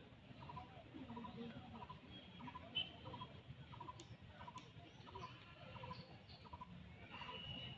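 Faint bird calling in the woods: a short double note repeated steadily, about three every two seconds, with a few brief high chirps mid-way and a single click near three seconds.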